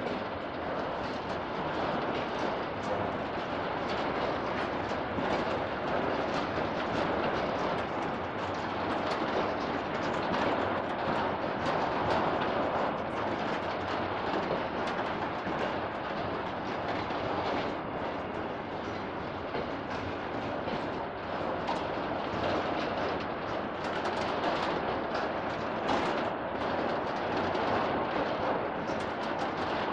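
Empty double-deck car-carrier freight wagons rolling past over the rails: a steady rumble and rattle of wheels and wagon bodies, with frequent sharp clanks.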